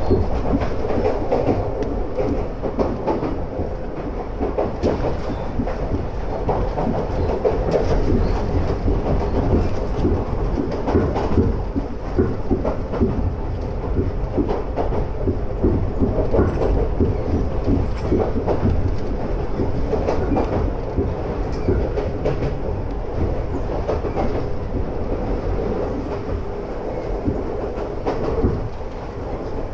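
Iga Railway electric train, a converted ex-Tokyu car, heard from inside the carriage as it runs at speed. There is a steady rumble of wheels on rail with frequent small clicks and rattles.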